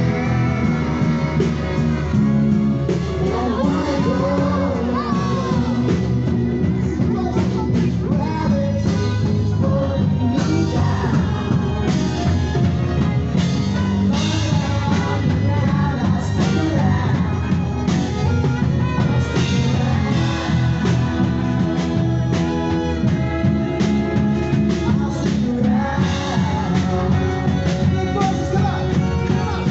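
A group of young people singing together over a loud backing track with a steady beat.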